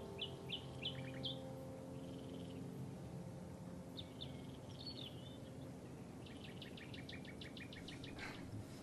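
Faint birdsong: a few quick chirps at the start and again about four seconds in, then a fast trill of repeated notes near the end. The last held notes of soft music fade away in the first couple of seconds.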